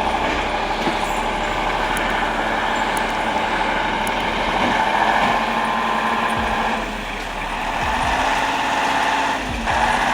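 Heavy truck driving: a steady engine and road noise, easing off briefly twice in the second half.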